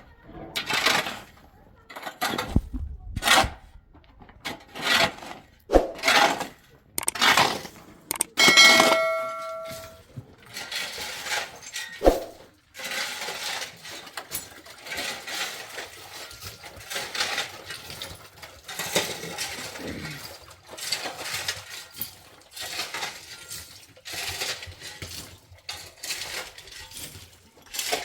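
Repeated scraping and clinking strokes of metal on a hard surface, about one a second at first and then quicker and denser. One of them, about eight seconds in, rings on like struck metal.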